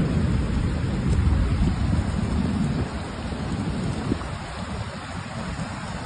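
Heavy rain and rushing floodwater: a dense steady noise with a low rumble that eases after about three seconds.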